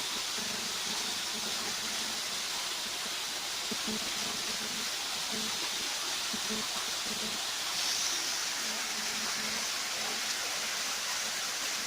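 Steady hissing noise with faint voices in the background.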